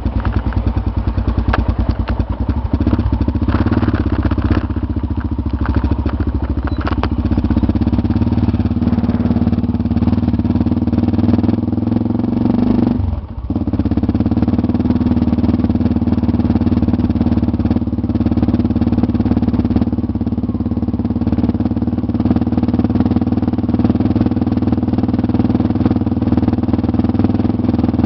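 Motorcycle engine running steadily while riding, easing off briefly about thirteen seconds in before picking up again, with a few clicks in the first several seconds.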